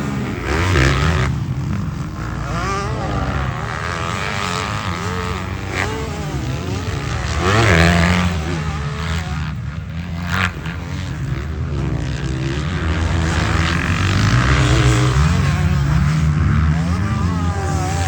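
Honda CRF250R four-stroke single-cylinder dirt bike engine being ridden hard, its pitch repeatedly rising and falling with throttle and gear changes, with louder surges about a second in and again near eight seconds.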